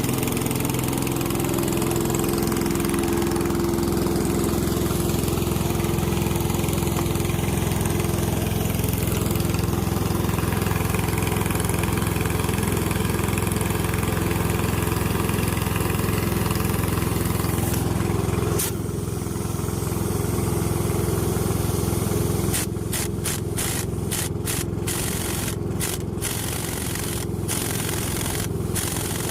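An engine idling steadily. Sharp clicks or taps come in quick succession over the last several seconds.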